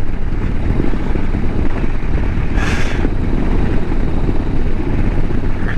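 Harley-Davidson Road Glide CVO ST's Milwaukee-Eight V-twin running steadily at an easy cruise, with wind and road noise and a brief rush of higher noise a little past halfway.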